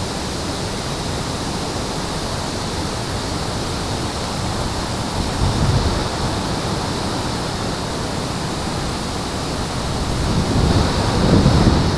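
Steady rushing outdoor noise, like wind or running water, with no clear bird calls; low rumbles swell briefly about five seconds in and again near the end.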